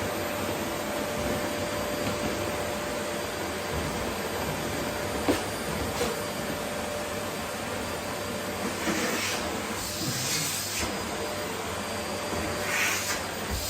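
Vacuum cleaner running steadily, an even rushing noise with a faint steady whine. Two sharp clicks come midway, and brief rushes of higher hiss come near the end.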